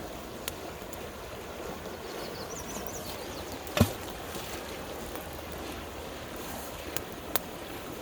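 River water flowing steadily, with a few sharp pops and crackles from a campfire, the loudest about four seconds in.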